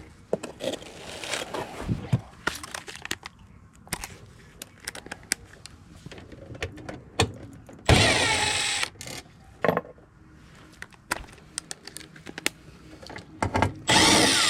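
Scattered clicks, taps and light rattles of hand work on an HVAC unit's wiring and control board. Two louder stretches of rasping noise stand out, about a second long around eight seconds in and a shorter one near the end.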